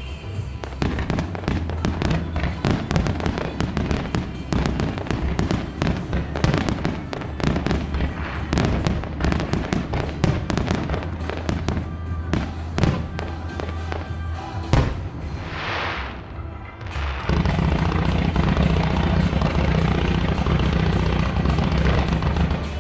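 Fireworks display: a rapid barrage of shells bursting in many sharp bangs and cracks, over music played through the show's loudspeakers. About two-thirds of the way through the bangs stop for a brief hissing swell, then a dense, steady crackle carries on with the music.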